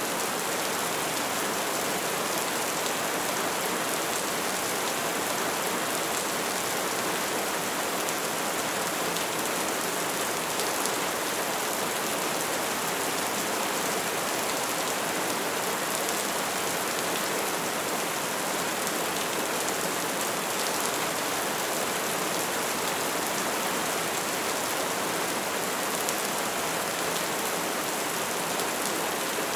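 Soft rain falling steadily, a constant even hiss with no change in strength.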